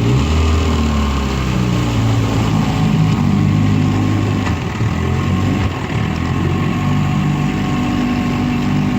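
A 1959 Johnson QD-20 10 hp two-stroke outboard motor (with a 1959 Evinrude Golden Jubilee powerhead) running on a boat, its pitch wavering a little. It pops now and then, a sign that it is still running cold.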